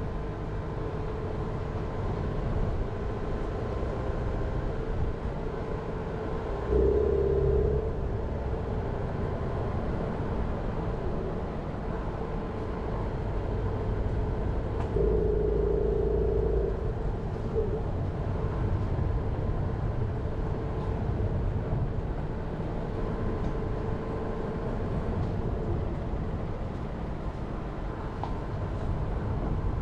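Jeep Renegade driving along a forest road: steady engine drone and tyre rumble, swelling briefly louder about seven seconds in and again for a couple of seconds around the middle.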